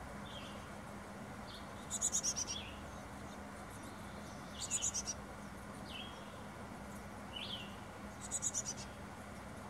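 Small birds calling: a high, rapid trill of about half a second, falling slightly, repeated three times about three seconds apart, with short lower chirps between.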